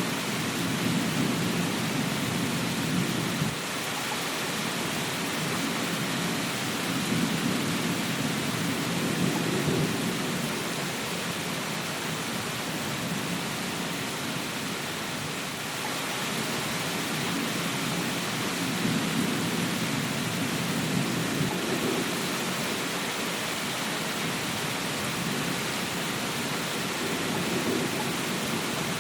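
Steady rain falling, with low rumbles that swell and fade several times, strongest near the start, about a third of the way in, and two-thirds of the way in.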